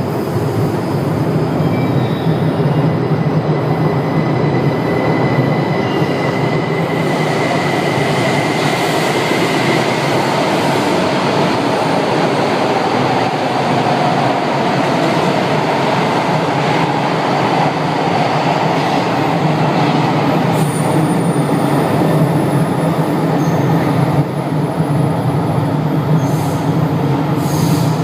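São Paulo Metro Line 2 train running through the station: a loud, steady rumble of wheels on rail, with a thin high wheel squeal in the first third.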